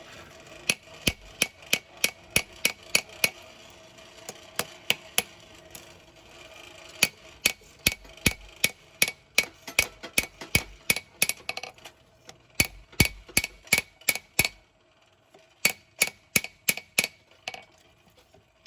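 Blacksmith's hand hammer striking a hot knife blade on an anvil, a steady run of about three blows a second with a bright ringing anvil tone, pausing briefly near the end; the blows are straightening the blade and knocking a hump out of it.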